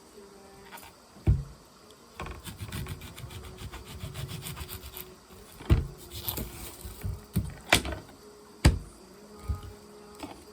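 Knife work on a wooden cutting board: a run of quick, even cutting strokes, then several sharp single knocks.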